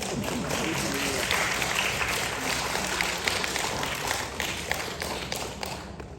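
Audience applauding: a dense patter of many hands clapping that tails off near the end.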